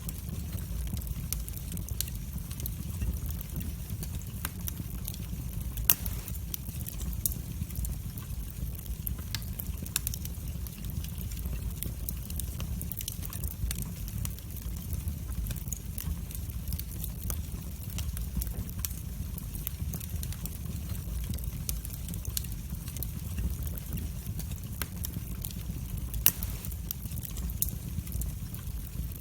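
Wood fire burning in a fireplace: a steady low rumble of the flames with frequent sharp crackles and pops, two louder pops about 6 and 26 seconds in.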